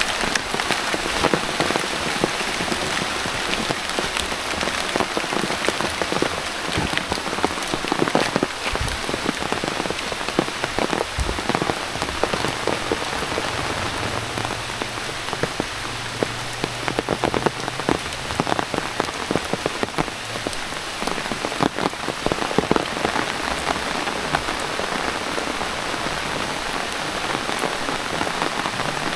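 Steady heavy rain with dense drops pattering, and now and then a louder close drop striking.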